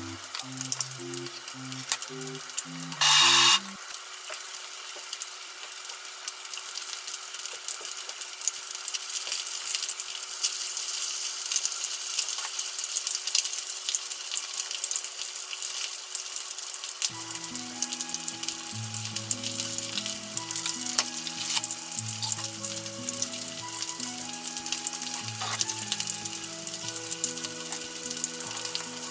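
Chicken thigh karaage frying in a shallow pan of oil: a steady crackling sizzle full of small pops. A brief loud hiss comes about three seconds in. Soft background music plays under it, stops a few seconds in and comes back about halfway through.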